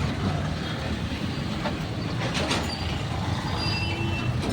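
Train passing with a steady low rumble.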